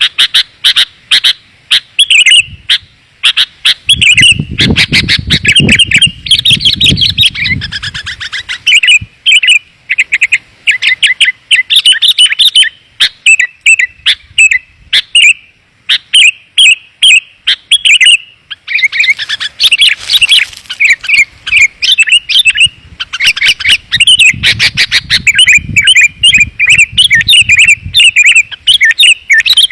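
Sooty-headed bulbul song, dense and clear: a rapid, unbroken run of short chirping notes, played as a lure to call in wild bulbuls. A low rumble comes in twice underneath, for a few seconds each time.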